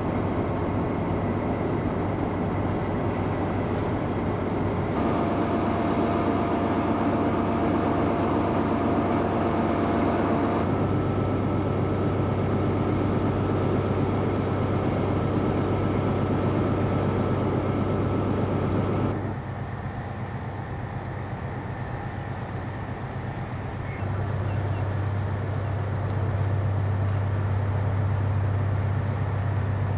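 Railway sound from several spliced clips of trains, the sound changing abruptly at each cut, with a steady low hum of running locomotive or train machinery under most of it.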